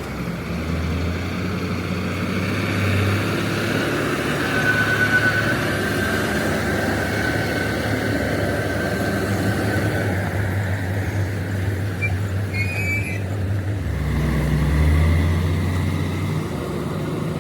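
Heavy vehicle's engine running steadily with a low drone, swelling briefly near the end, and a thin high whine for a few seconds in the middle.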